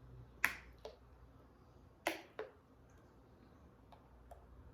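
A few sharp clicks at the table while eating, in two pairs: a loud click about half a second in and another about two seconds in, each followed by a softer one, then a faint tick near the end.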